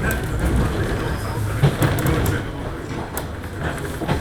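Cabin interior of a JR 103-series electric commuter train running, a steady low rumble with scattered short clicks and rattles.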